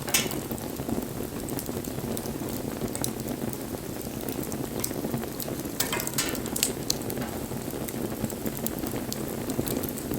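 Wood bonfire burning: a steady low rush of flames with scattered sharp crackles and pops. The loudest pop comes right at the start, and a short cluster of pops comes about six seconds in.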